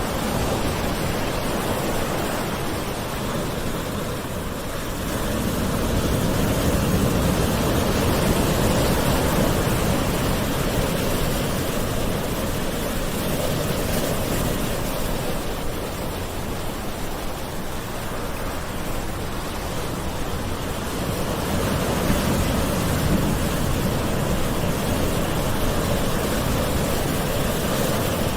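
Gentle ocean waves washing ashore, a steady wash of surf that slowly swells and ebbs, with two broader swells about fifteen seconds apart.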